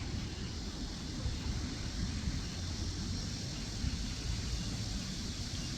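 Wind buffeting the microphone: a steady, unbroken low rumble with an even hiss over it.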